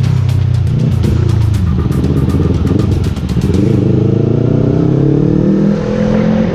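Yamaha R3 motorcycle's parallel-twin engine running through its newly fabricated exhaust silencer, held steady, then revved up over about two seconds near the end.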